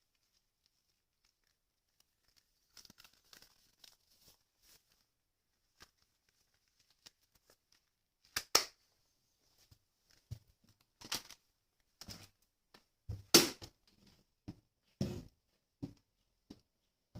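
Intermittent handling noises: faint crinkling and rustling, then several short louder knocks and rustles, the loudest about 8 and 13 seconds in. No vacuum motor is running.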